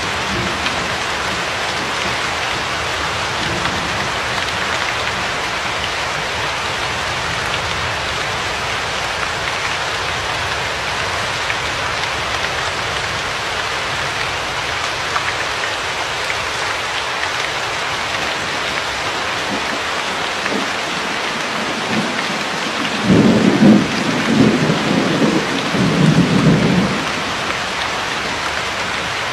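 Steady, heavy rainfall hissing evenly. Near the end a roll of thunder rumbles low for a few seconds in several swells.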